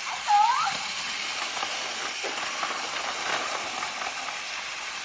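Battery-powered Tomy toy trains running on plastic track: a steady whirring rattle of their small motors and gears.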